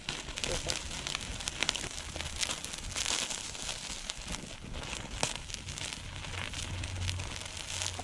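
A wood fire of upright split logs burning, crackling with frequent sharp pops and snaps.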